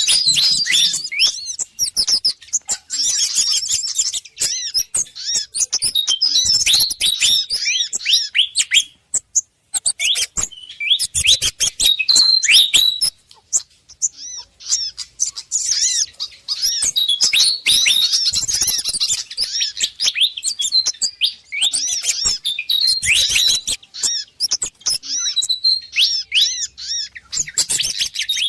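Bird-lure recording of pied fantail (sikatan kipas) calls in an agitated, excited state, mixed with sogon and kemade bird calls: dense runs of quick, high chirps and squeaky notes, broken by a couple of short pauses.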